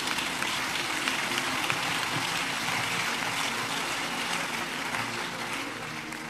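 Congregation applauding: a dense patter of many hands clapping that slowly dies down.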